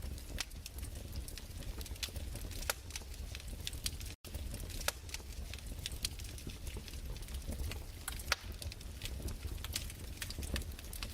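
Wood fire crackling: irregular sharp pops and snaps over a low, steady rumble. The sound cuts out completely for an instant about four seconds in.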